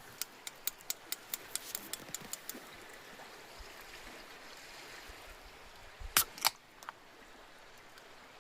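A quick run of about a dozen light clicks, then two sharp knocks about six seconds in and a fainter one after them, over a faint steady hiss.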